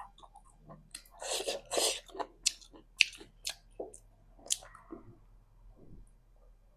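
Close-miked mouth sounds of a person eating spicy instant noodles: wet chewing with sharp clicks and squishy swishes, thinning out near the end.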